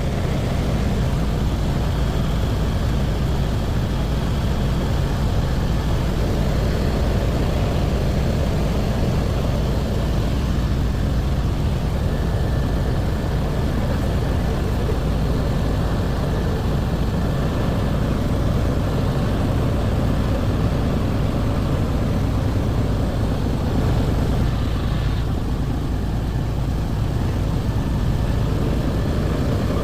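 Helicopter engine and rotor running steadily in flight, a loud, unbroken low rumble as heard from inside the cabin.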